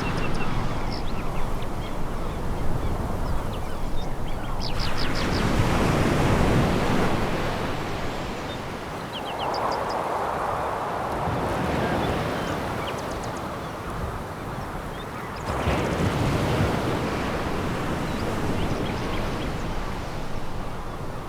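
Sea waves breaking and washing over a pebble beach, surging in loudly twice, with brief high clicks over the steady surf.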